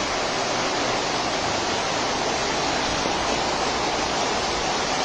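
Steady, unbroken rush of heavy rain and wind during a storm.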